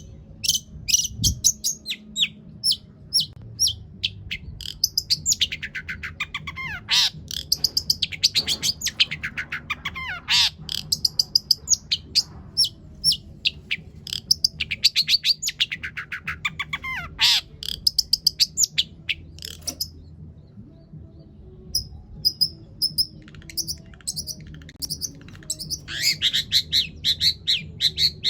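Long-tailed shrike singing a long, varied song: rapid high chirps and two long runs of repeated whistles that slide downward, with a brief pause about two-thirds through. The song is stuffed with notes copied from other birds.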